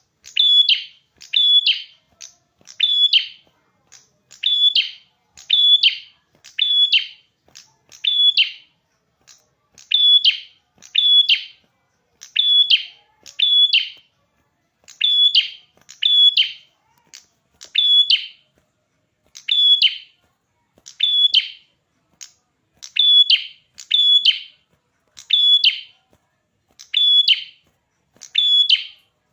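A small songbird known in Indonesian as perjak kepala merah calling persistently: a short, sharp high note repeated about once a second, often in quick pairs, with no pause.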